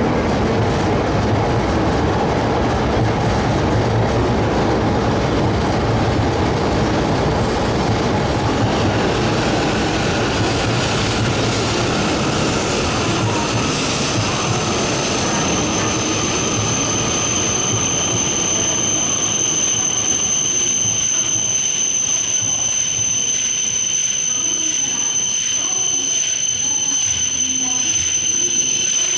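E5 series Shinkansen pulling slowly into a station platform. The rumble of its wheels and running gear fades as it slows. A steady high-pitched squeal sets in about halfway through as it comes to a stop.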